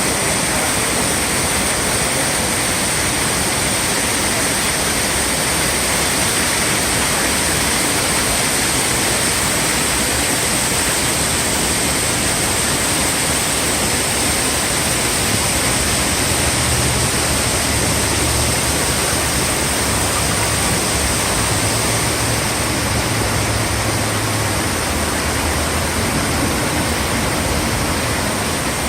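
Steady, loud rush of water from a swollen river pouring over falls together with a hard downpour. A low rumble joins underneath for several seconds past the middle.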